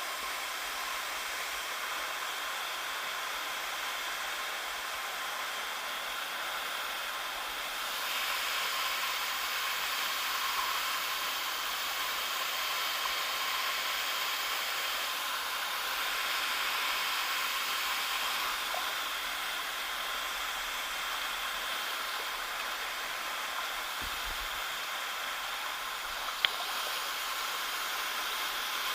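Waterfall rushing: a steady hiss of falling water that grows a little louder about a third of the way in. A single sharp click comes near the end.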